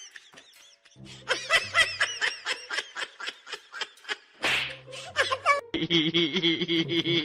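A person snickering and giggling in a quick run of short laughs, about five a second. Near the end a steady pitched sound comes in under it.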